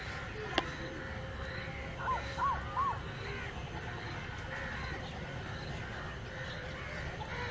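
A bird calls three times in quick succession about two seconds in, each call short, rising and then falling, over steady low background noise. A single sharp tap comes about half a second in.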